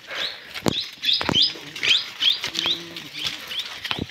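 Small birds chirping, many short notes that each flick upward in pitch, over sharp clicks and scuffs of steps on stony ground. A brief low hum sounds about two and a half seconds in.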